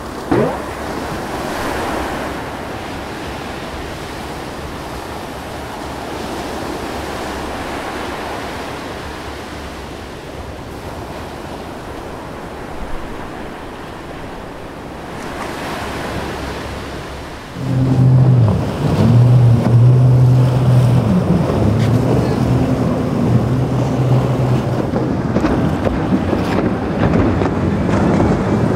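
Waves and wind rushing over the microphone. About two-thirds of the way in, a boat engine comes in louder as a low, wavering drone over the water noise.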